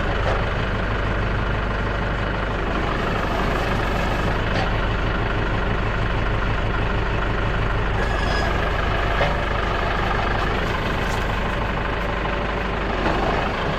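An engine running steadily at an even speed. It starts and cuts off suddenly.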